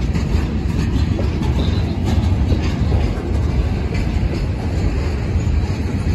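Loaded centerbeam lumber flatcars of a freight train rolling past close by: a steady low rumble of steel wheels on the rails, with scattered clicks and clacks.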